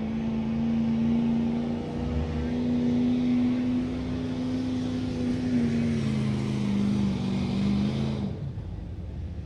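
A pulling truck's engine running hard at high revs, holding steady. Its pitch then drops in a couple of steps, and it cuts off about eight seconds in as the throttle is let off.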